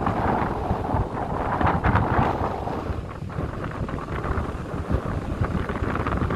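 Gusty wind blowing across the microphone, buffeting it in irregular low rumbles, over the steady wash of the sea.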